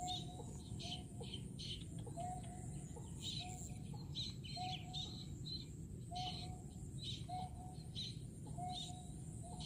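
Bird calls: a short, low, clucking note repeated at a steady pace about once a second, with higher chirping notes between.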